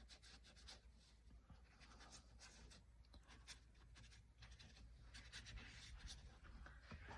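Faint strokes of a watercolour brush across wet paper, a scatter of light scratchy dabs.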